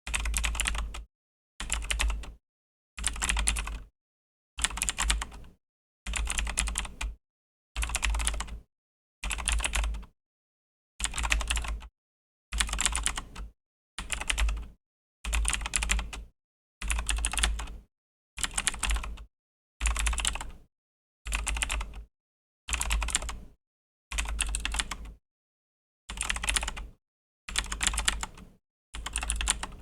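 Typing on a Razer BlackWidow V3 mechanical keyboard with Razer Green clicky switches: rapid key clicks in runs of about a second each, broken by short, completely silent gaps roughly every one and a half seconds.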